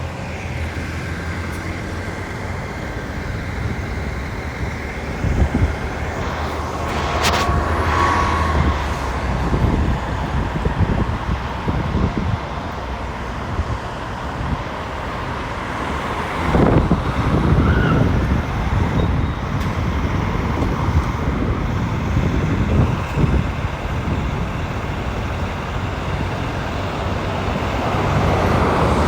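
Road traffic: motor vehicle engines running with a steady low hum and vehicles passing, swelling louder a couple of times. A single sharp click about seven seconds in.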